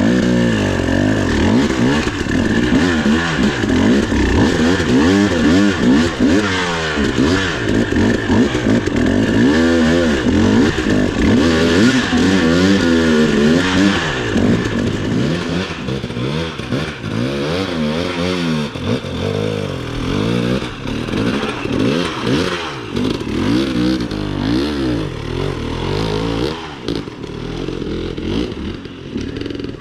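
Dirt bike engine revving up and down over and over as the throttle is blipped, eased off and opened again, the pitch rising and falling every second or two. It grows somewhat quieter in the last few seconds.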